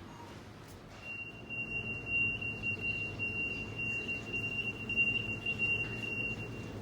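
A single steady high-pitched tone, like a whistle or electronic beep, starts about a second in and holds for about five seconds, wavering slightly in loudness, over a low hum.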